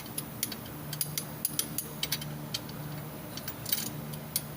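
Irregular sharp metallic clicks and ticks from hand tools working on differential parts, over a low steady hum.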